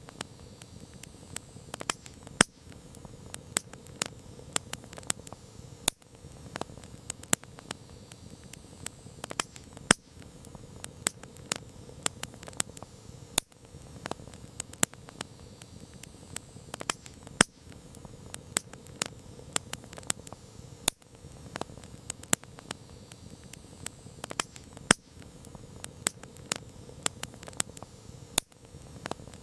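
Wood campfire crackling: irregular sharp pops and snaps, several a second with some louder cracks, over a steady low hiss of the burning flames.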